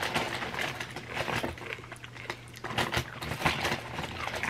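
Close-miked chewing of crunchy chips loaded with creamy dip: irregular crisp crunches and mouth clicks, with a few louder crunch clusters.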